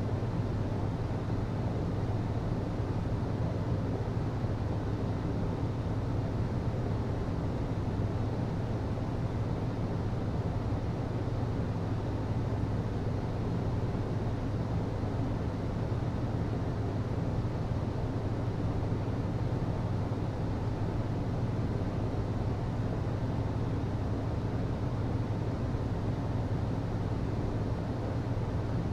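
HVAC system running steadily: a constant low hum over an even rushing noise.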